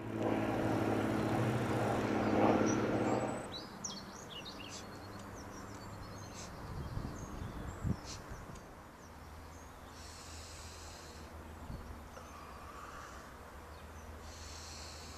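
A loud, low, drawn-out sound with a steady pitch for about three and a half seconds, then small birds chirping in short quick notes, with two brief high hissy patches near the end over a faint low hum.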